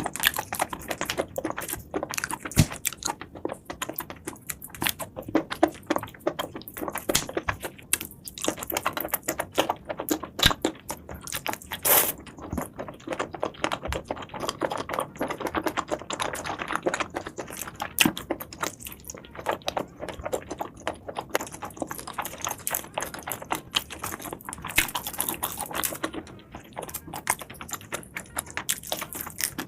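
Close-miked eating sounds: seafood being chewed and bitten, with a constant run of fast, irregular crunches, crackles and wet mouth clicks.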